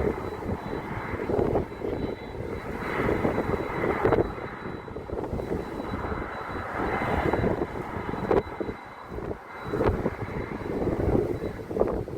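Airliner engines rumbling as an aircraft passes close by the airport. The rumble rises and falls unevenly throughout.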